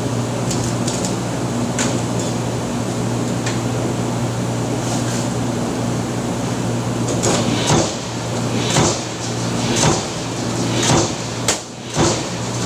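Factory press machine running with a steady low motor hum; from about halfway through, a sharp clunk about once a second as the press cycles.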